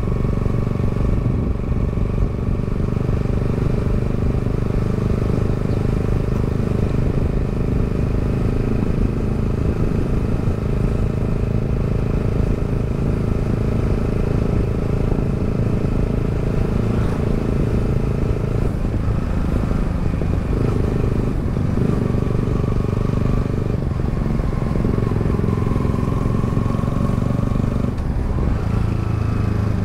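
Yamaha XSR 155 motorcycle's single-cylinder engine running steadily while riding at cruising speed, its pitch shifting a little now and then in the second half.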